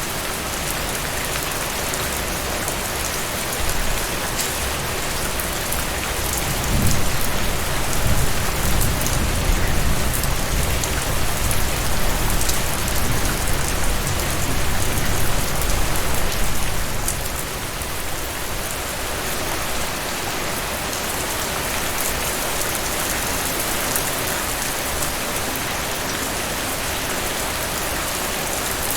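Heavy rain falling steadily in a dense hiss. A low rumble swells about seven seconds in and fades out about ten seconds later.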